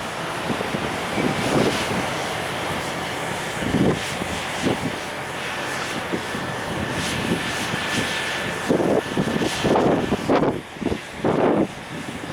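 Container freight train running past: a steady rumble of wagons on the rails, with gusts of wind buffeting the microphone, strongest near the end.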